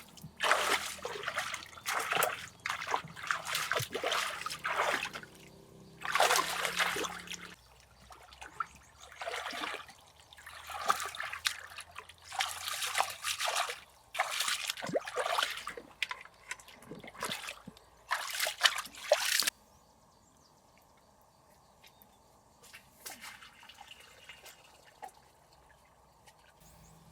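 Water splashing and trickling in irregular bursts, stopping abruptly about two-thirds of the way through.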